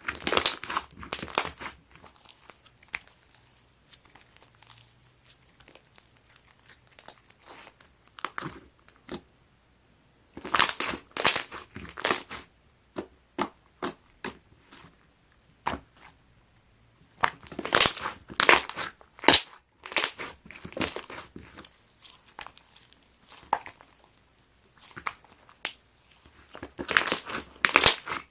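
Clear slime being squeezed and pressed by hand, giving off crackling, popping clicks as air bubbles burst. The clicks come in several dense flurries with quieter stretches between them.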